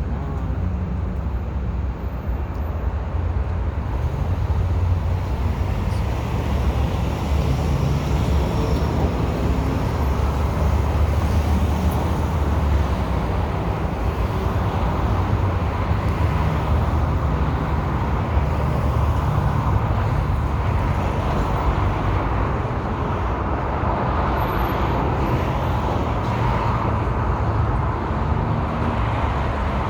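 BNSF diesel locomotives idling with a steady low engine hum, over a continuous rushing noise that swells slightly through the middle and later part.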